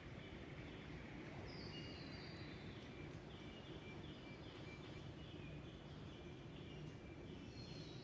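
Birds calling faintly over a steady low background rumble. A falling series of high, clear notes comes about a second and a half in, a run of short repeated notes follows, and another falling series comes near the end.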